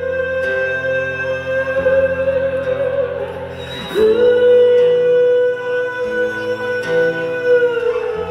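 Live acoustic band music: guitar chords under a long held melody line whose notes glide to a new pitch about four seconds in, heard through a mobile phone's microphone.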